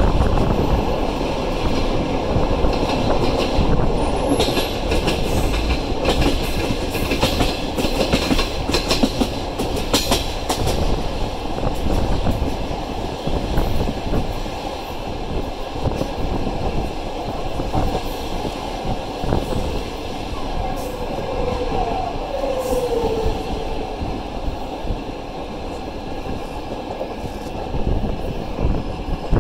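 Passenger train running on the rails, heard from a carriage window: a steady rumble of wheels with clicks over the rail joints, most frequent in the first third. A few faint wheel squeals come about two-thirds of the way in.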